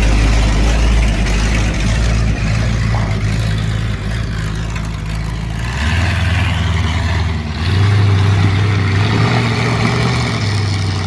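Chrysler 413 big-block V8 with a big camshaft in a 1969 Dodge D100 pickup, running loud and low; about six seconds in the engine speed picks up and the note rises, peaking a couple of seconds later.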